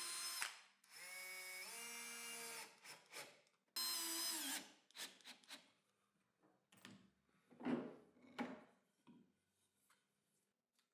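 Power drill driving screws into wood in two short runs, the second winding down at its end, followed by a few light knocks of wooden pieces being handled.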